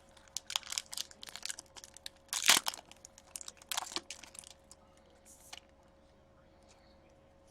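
Trading cards and plastic being handled: irregular rustling and crinkling, loudest about two and a half seconds in, dying away after about five and a half seconds.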